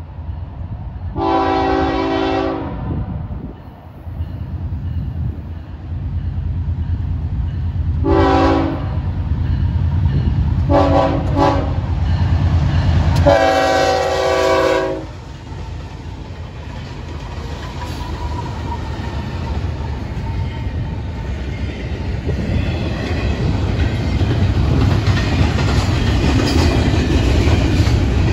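Florida East Coast freight train's diesel locomotives sounding their horn: a long blast, a short one, a quick double and a final long blast as they close in, over a low engine rumble that grows as they pass. Then the double-stack container cars roll by with a steady wheel clatter on the rails.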